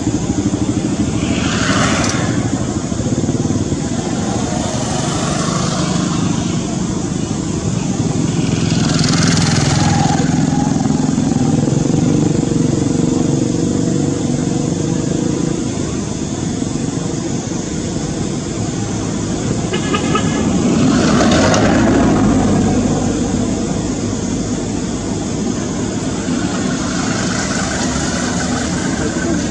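Continuous motor-vehicle noise, an engine running with passing-traffic rush that swells several times.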